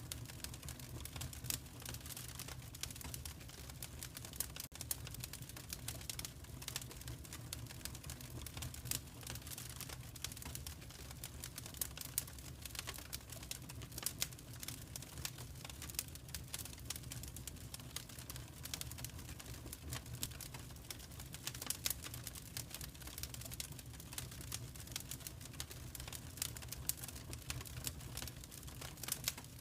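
Wood fire crackling in a fireplace: constant irregular snaps and pops over a steady low rumble of the flames.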